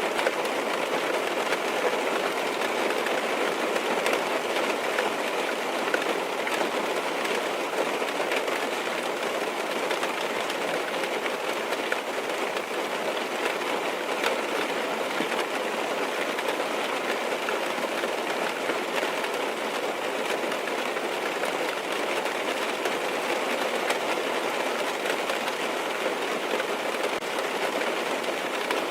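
Steady rain falling on a car's roof and windows, heard from inside the car as a constant hiss with many small taps.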